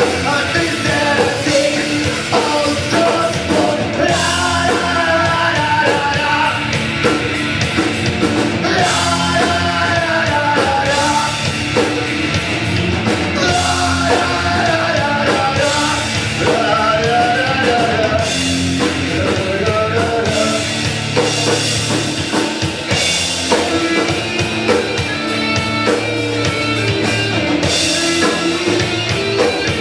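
Live rock band playing loud, heavy music: drum kit, electric guitars and bass, with a wavering melodic line riding over it for much of the passage.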